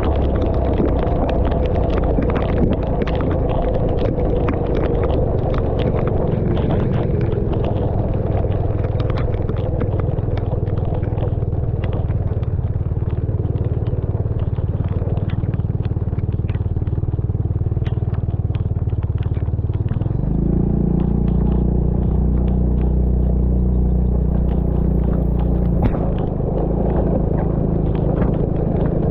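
A vehicle engine running steadily on the move, with scattered ticks and crackles of rain on the camera. About two-thirds of the way through the engine's low rumble grows deeper and stronger.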